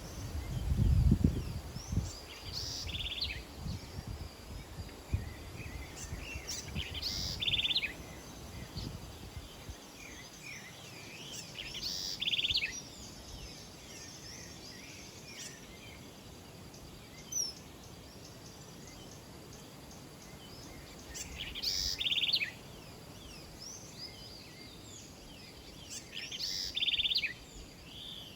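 Small birds calling, a phrase with a fast trill repeating about every four to five seconds. A low rumble in the first couple of seconds is the loudest sound.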